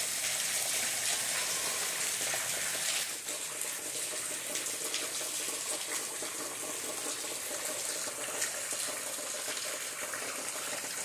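Rain falling steadily, a dense even hiss that becomes a little quieter about three seconds in.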